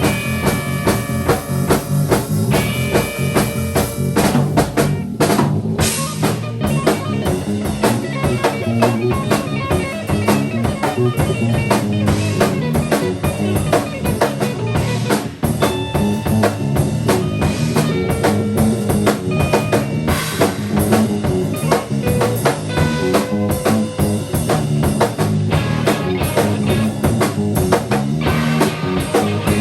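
Improvised band music played live: a busy drum kit with rimshots and bass drum, and guitar.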